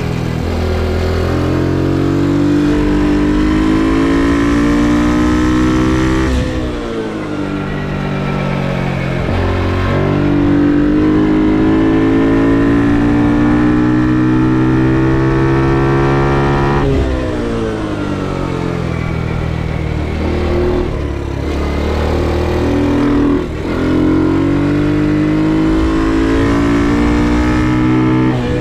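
Ohvale GP2 mini motorcycle's 110 cc four-stroke single-cylinder engine heard onboard on track. The revs climb steadily in long pulls down the straights, then drop sharply and wind down as the rider rolls off into the corners, then climb again near the end.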